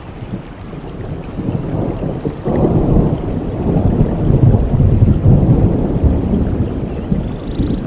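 Steady rain with a long roll of thunder. The thunder cracks in about two and a half seconds in, rumbles loudest in the middle, then slowly dies away.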